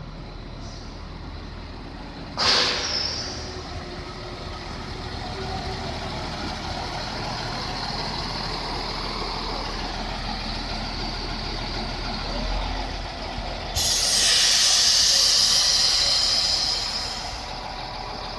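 Koleje Dolnośląskie passenger train pulling into a station and rolling slowly past along the platform, with a steady low rumble. A sharp hiss comes about two seconds in, and a loud hiss of compressed air lasts about three seconds near the end as the train slows.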